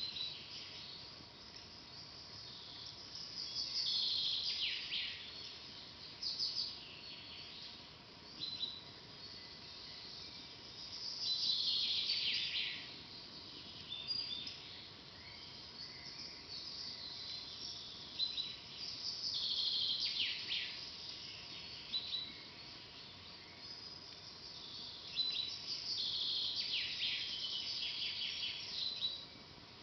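A songbird singing a short phrase of rapid notes that sweep downward, four times, about every seven to eight seconds, with short single calls in between.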